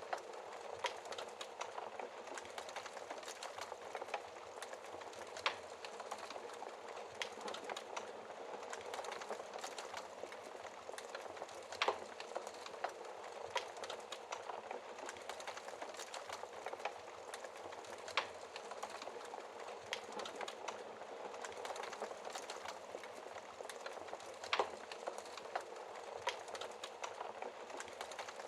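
Wood fire burning behind a glass fireplace door: a steady soft hiss of flames with frequent small crackles and a louder sharp pop every few seconds.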